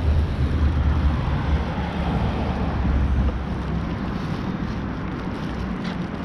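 Outdoor road noise of city traffic heard while riding a bicycle, with a heavy low rumble from wind on the microphone that eases about three seconds in.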